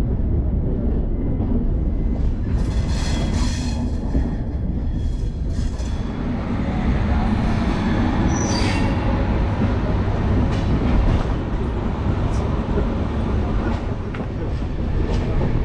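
Train running on the rails with a steady low rumble, and a brief high wheel squeal about eight and a half seconds in.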